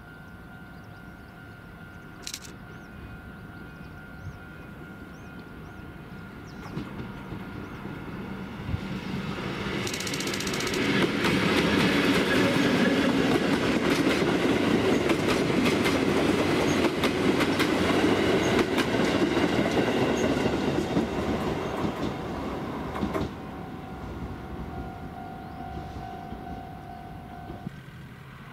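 A train of Tobu 8000 series commuter cars hauled by a Chichibu Railway Deki 500-class electric locomotive passing close by, its wheels clattering over the rail joints. The sound builds over several seconds, stays loud for about ten seconds while the cars go by, then fades.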